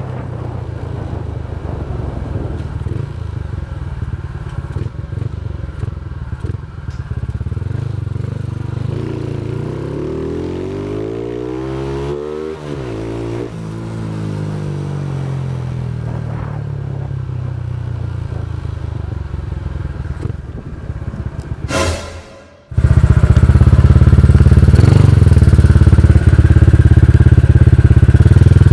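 Motorcycle engine running steadily while riding, with engine pitch lines sweeping up and down about halfway through. About three-quarters of the way in the sound drops out briefly, then returns much louder.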